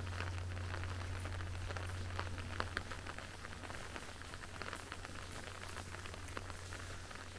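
Rain falling, with scattered drops ticking sharply close by over a steady hiss. A low steady hum runs underneath and fades near the end.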